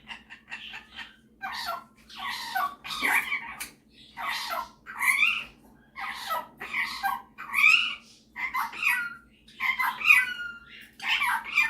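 Superb parrot (Barraband parakeet) giving a run of about a dozen short calls and chattering notes, one after another, some sliding in pitch.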